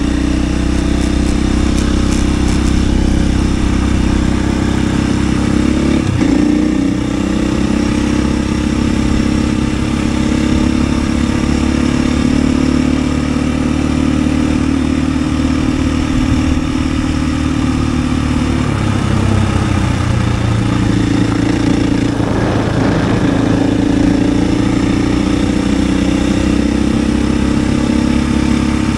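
KTM 500 EXC-F enduro motorcycle's single-cylinder four-stroke engine running steadily under way, its note changing pitch about six seconds in and again about nineteen seconds in.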